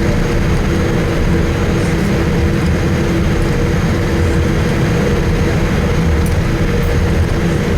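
Steady jet-engine noise inside the cabin of a Boeing 787-8 with two General Electric GEnx-1B engines: a constant low rumble with a steady two-note hum.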